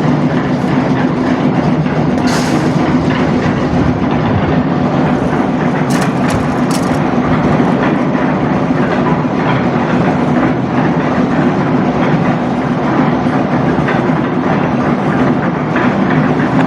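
A heavy engine on a construction site running steadily, with a few sharp clicks about two seconds in and again around six to seven seconds in.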